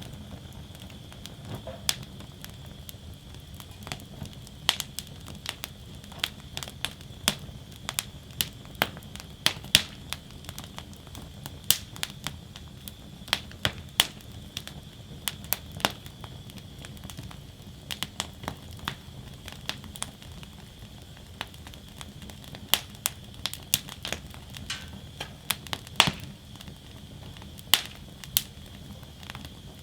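Wood fire burning in a fire basket, crackling and popping with frequent sharp, irregular snaps over a steady low rumble of the flames.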